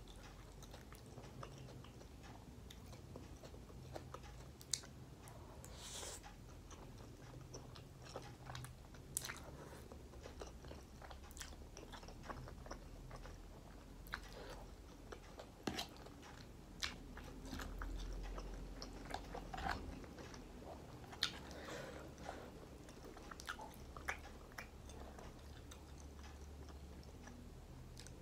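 Close-up eating sounds: carbonara instant noodles chewed and bitten off a fork, with scattered sharp clicks and mouth smacks over a low steady hum.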